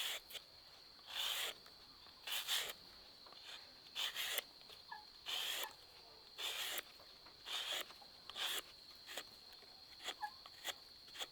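Rhythmic rasping strokes, about one a second, each short and scratchy, over a steady high thin tone.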